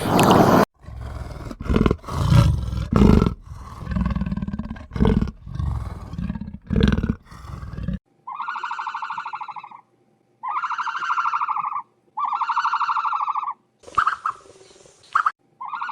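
Wild animal growling and roaring, rough and low, in uneven bursts. About eight seconds in it cuts to a different animal making a series of buzzy, rapidly pulsed calls, each about a second and a half long, roughly one every two seconds.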